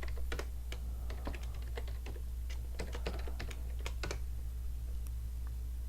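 Typing on a computer keyboard: quick, irregular keystrokes for about four seconds, then a few scattered ones. A steady low electrical hum runs underneath.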